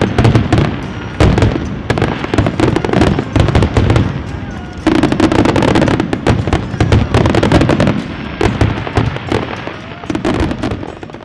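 Fireworks going off in a dense, rapid barrage of cracks and bangs, with a fresh loud salvo about five seconds in; the barrage thins toward the end and stops.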